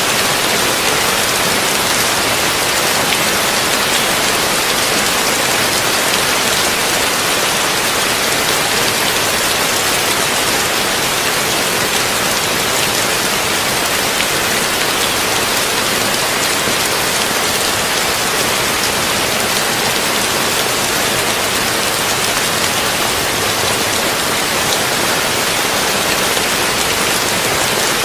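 Heavy rain falling steadily on a tin roof: a dense, even hiss made of countless small drop impacts, with no thunder.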